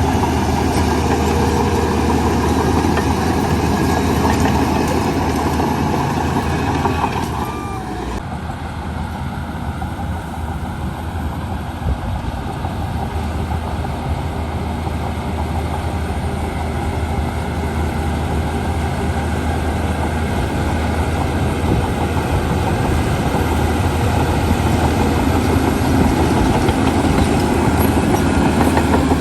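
Heavy earthmoving machinery's diesel engines running steadily. The sound changes abruptly about eight seconds in, with less high-pitched noise afterwards.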